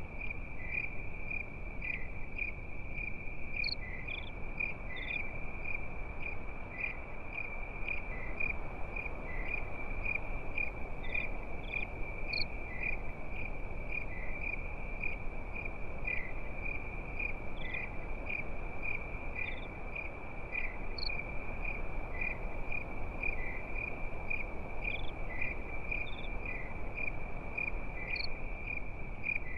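Crickets chirping steadily at night: one high-pitched trill pulsing rapidly without a break, with occasional fainter, higher chirps from other insects and a steady low rushing noise underneath.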